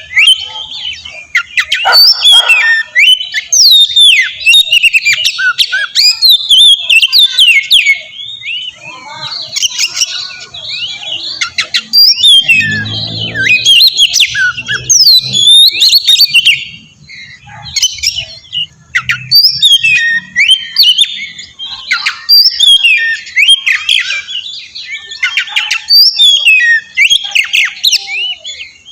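Oriental magpie-robin (kacer) singing a loud, rapid run of varied whistles, sweeping notes and harsh chattering phrases, broken by short pauses. A brief lower-pitched call sounds about halfway through.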